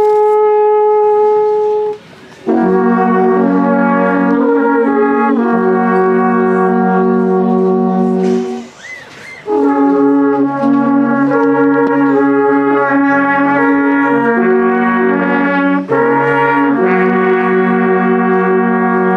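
Several alphorns playing together in long held chords, phrase after phrase, with two short pauses between phrases.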